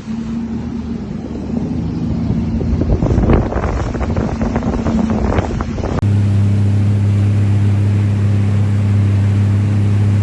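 Jet ski engine running steadily while water splashes around it, most strongly about three to five seconds in. About six seconds in, the sound cuts abruptly to a louder, steadier engine hum.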